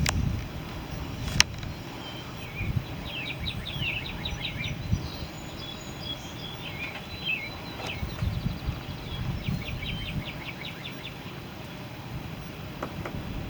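Outdoor birdsong: two runs of rapid trilled chirps over a steady low rumble, with one sharp click about a second and a half in.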